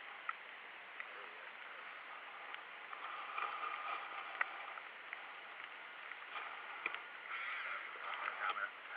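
Rain falling: a steady, fairly quiet hiss with scattered faint ticks of drops.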